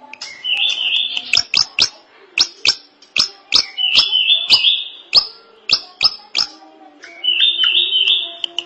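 Drongo (srigunting) singing: a run of sharp, whip-like notes that drop steeply in pitch, about three a second, broken up by quick warbled phrases near the start, in the middle and again near the end.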